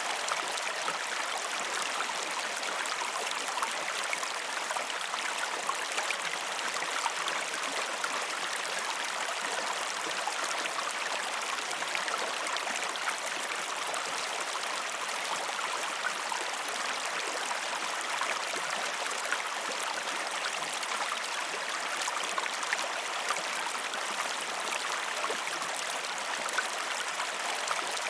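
A river flowing over rocks, a steady dense rush and babble of water with many small splashes, unchanging throughout.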